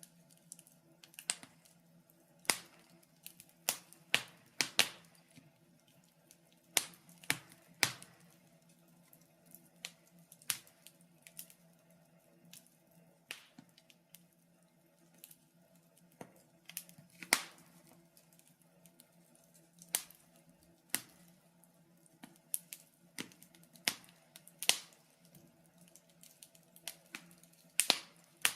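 Wood fire burning in a fireplace, with logs crackling and popping in irregular sharp snaps, roughly one or two a second, some much louder than others, over a faint steady low hum.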